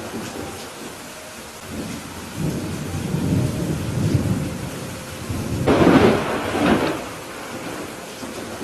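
Steady rain with rolling thunder: a low rumble builds a couple of seconds in, then a louder, sharper peal of thunder past the middle, which dies back to the rain.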